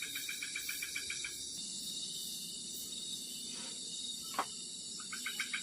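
Night insects in tropical forest: a rapid pulsed chirping trill of about ten pulses a second, which stops after about a second and a half and starts again near the end, over a steady high-pitched insect drone. A single sharp click about four seconds in.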